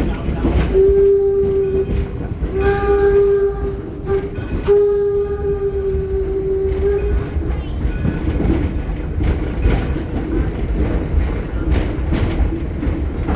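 Steam locomotive whistle blowing a series of long blasts on one steady pitch, over the rumble and clatter of the moving train.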